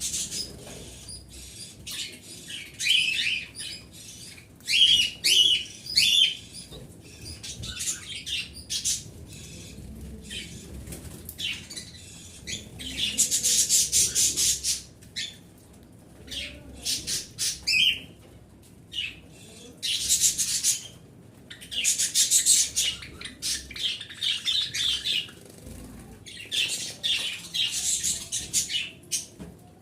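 Small pet birds chirping and chattering in quick, high-pitched bursts that come in clusters with short pauses between.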